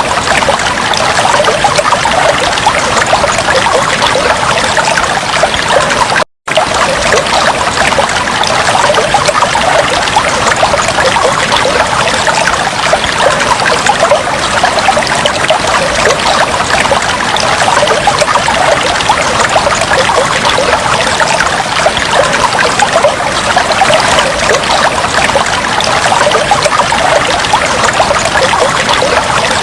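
Aquarium water trickling steadily, a dense fine crackle of moving water. It cuts out completely for an instant about six seconds in.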